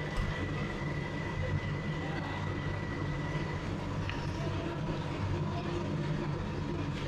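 Steady low mechanical rumble and hum of a revolving sushi restaurant's ambience, with a faint steady tone and a single small click about four seconds in.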